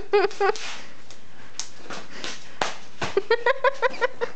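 A person imitating a monkey with a quick run of short, high, hooting calls, about eight in a second near the end, with a few similar calls at the start. A few sharp knocks or slaps come in between.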